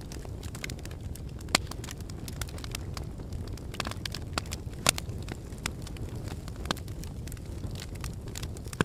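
Lava crackling and snapping over a steady low rumble: many irregular sharp cracks, with two louder snaps about a second and a half and five seconds in.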